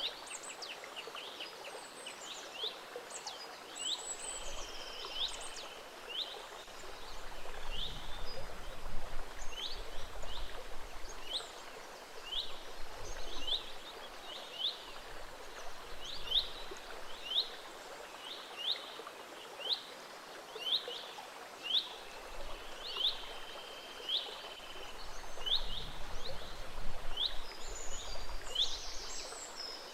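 Gentle stream running steadily, with birds singing over it: one bird repeats a short high chirp about once a second, and others trill briefly near the start and again near the end.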